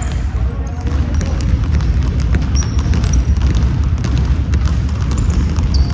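Basketball game on a gym court: the ball bouncing in repeated sharp knocks and sneakers briefly squeaking on the floor several times, over a steady low rumble.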